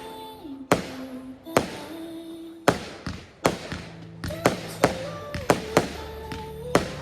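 Fireworks going off in a string of sharp bangs, roughly nine in seven seconds, coming quicker in the second half, over music with long held notes.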